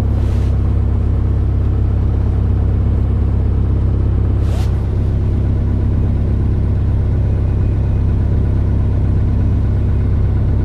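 Cessna 152's four-cylinder Lycoming piston engine running steadily, heard from inside the cockpit, with a brief rustle about four and a half seconds in.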